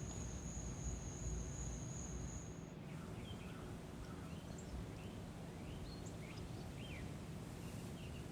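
An insect's steady high trill that cuts off about three seconds in, followed by scattered short bird chirps and whistles over a faint outdoor hum.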